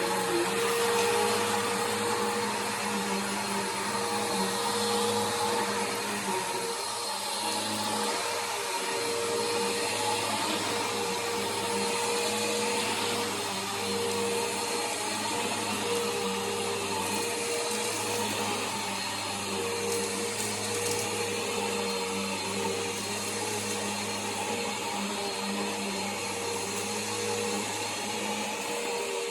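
Bissell Power Force upright vacuum cleaner running steadily, its motor hum constant while the pitch of the rushing air wavers up and down.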